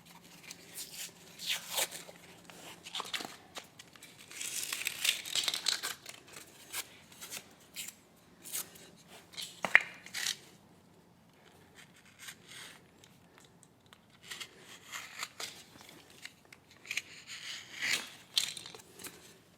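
Gypsum core being peeled and broken off the back of a drywall patch, the paper tearing away with irregular scraping, crackling and crumbling, and a sharp crack about ten seconds in.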